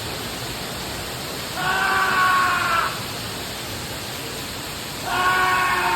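Steady rush of falling water with a voice letting out two long, held screams, about a second in and again near the end. The screams are the shouting done under the water as part of a Balinese water purification ritual.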